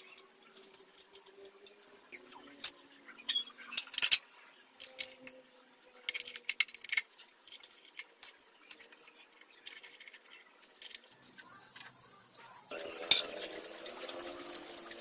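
Small metal parts and tools clinking and clattering as they are handled, in scattered sharp knocks, with a steady rushing hiss setting in near the end.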